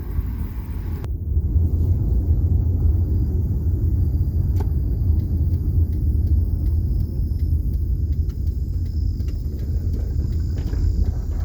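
Steady low rumble of a car driving slowly, heard from inside the cabin. A hiss cuts off suddenly about a second in, and scattered faint ticks come through in the second half.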